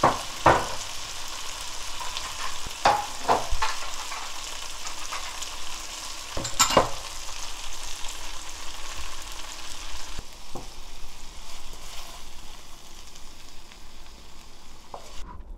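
Spicy conger eel stir-fry in its chili-paste and soy sauce sizzling in a wok, a steady frying hiss with a few sharp clinks of stirring in the first seven seconds. The sizzle cuts off suddenly near the end.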